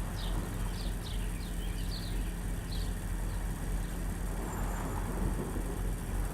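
Truck engine idling with a steady low hum. A bird chirps repeatedly in short falling notes, about twice a second, for the first three seconds.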